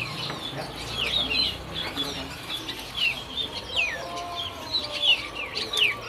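Many small caged birds chirping at once: short, quick overlapping calls, some sweeping down and some up in pitch.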